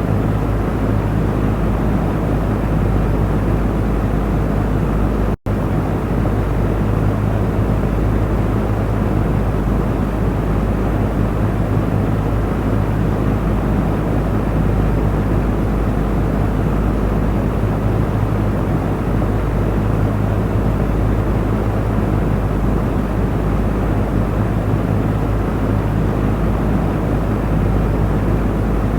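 Electric fan running steadily: a constant whoosh of moving air over a low motor hum, with a split-second dropout about five seconds in.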